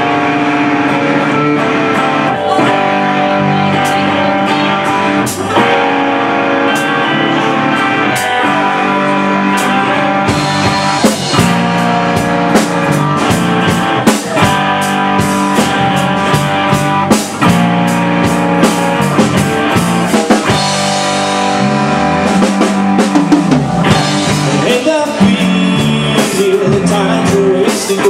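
Rock band playing an instrumental passage: electric guitar chords ring out, and a drum kit comes in with a steady beat about ten seconds in.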